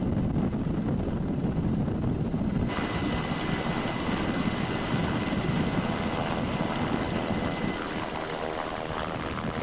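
Helicopter running, a steady low rumble of rotor and engine. About three seconds in, the sound changes abruptly and gains a brighter, hissing top with a steady high whine.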